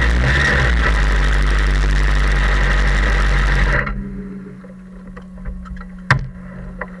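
A Suzuki GSX-R1000's inline-four engine running loud and steady. About four seconds in it drops suddenly to a much quieter steady hum. A single sharp click follows a couple of seconds later.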